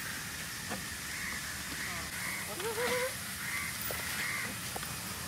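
A bird calling repeatedly, about six short calls spaced roughly half a second apart, over a steady outdoor hiss.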